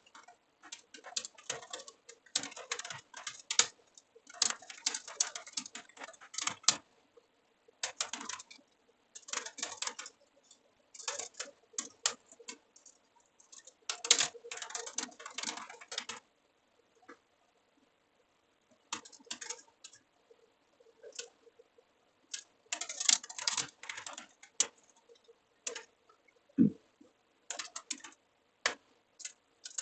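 Typing on a computer keyboard: rapid runs of key clicks lasting a second or two, broken by short pauses, with a longer pause about halfway through.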